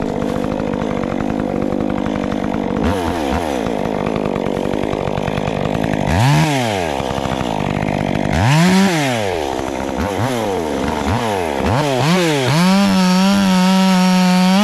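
Two-stroke chainsaw idling, then revved in several short bursts that rise and fall. Near the end it is held at full throttle.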